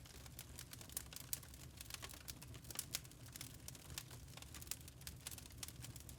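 Wood fire crackling in a fireplace: irregular small pops and snaps over a low steady rumble.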